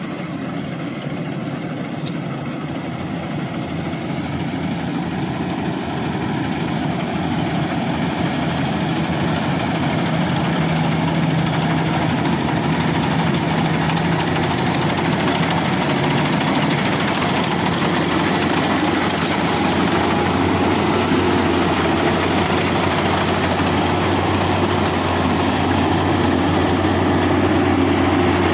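Rice combine harvester's engine running steadily, growing gradually louder over the stretch.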